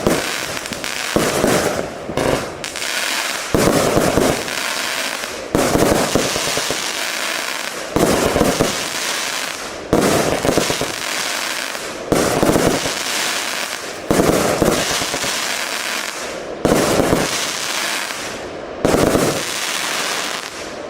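Wolff Feuerwerk 'Renegade' 105-shot compound fireworks battery firing. A sudden bang comes about every two seconds, each followed by dense crackling that dies down before the next.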